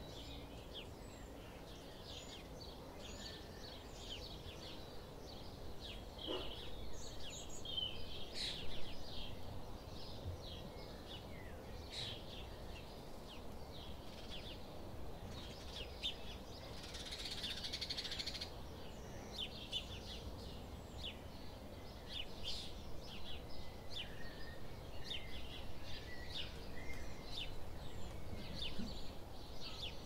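Garden birds chirping and calling, with many short high notes overlapping throughout and a brief harsher, noisier call a little past halfway, over a low steady background rumble.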